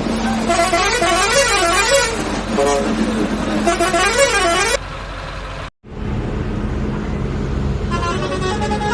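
A siren-like horn tone that rises and falls about three times over a steady low hum, then breaks off abruptly. A steady engine-like hum follows, with a stepping electronic tune starting near the end.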